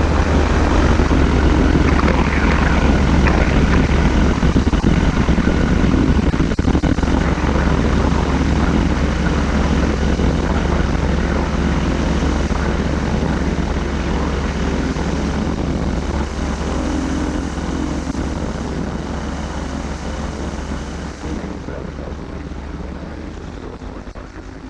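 Engine and propeller of a flexwing microlight trike running steadily with a constant low drone, growing slowly quieter and fading faster over the last few seconds.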